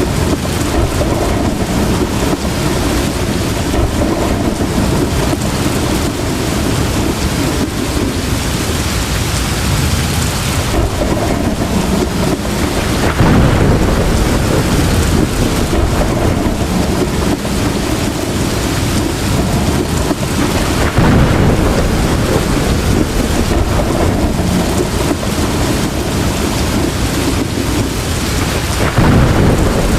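Heavy rain pouring steadily, with low thunder rumbling up about a third of the way in, again about two-thirds in, and near the end.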